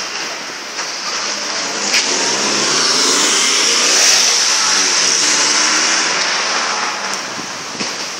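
A car driving past on a rain-wet road: the engine and the hiss of tyres on the wet surface swell to a peak about four seconds in and then fade away.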